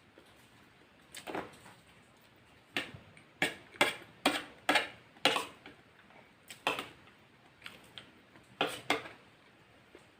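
Close-miked eating: a quick run of short, sharp crunches from chewing crispy fried chicken, thickest about four to five seconds in.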